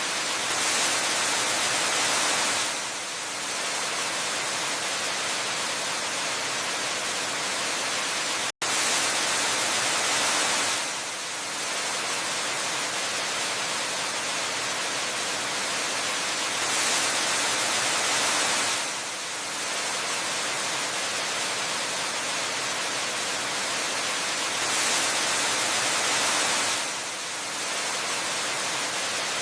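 Waterfall rushing in a steady hiss, swelling slightly about every eight seconds, with a brief dropout in the sound about eight and a half seconds in.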